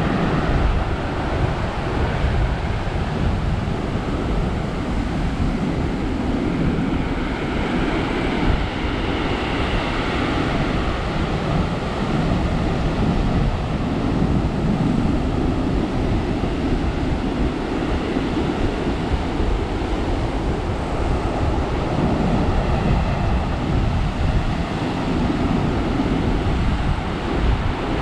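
Heavy surf after a typhoon breaking and rushing up a gravel beach, a continuous rush that swells and eases every few seconds, with wind buffeting the microphone.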